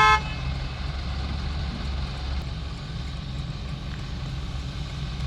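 Heavy diesel machinery engine running steadily at a low rumble. A horn toot ends just at the start.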